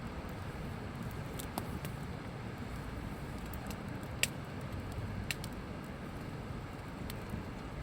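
Campfire crackling, with scattered sharp pops, the loudest about four seconds in, over a steady low rumble.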